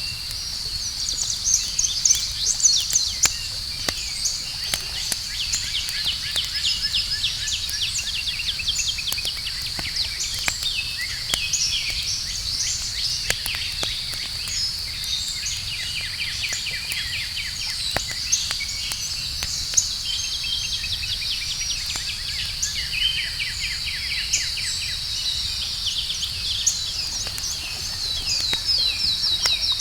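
Campfire crackling with scattered sharp pops, under a steady high chirring of night insects and bursts of rapid repeated trills that grow busier near the end.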